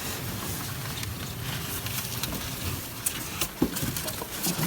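A cardboard shipping carton and its foam packing being opened and handled: scattered sharp clicks and rustles starting about three seconds in, over a low background rumble.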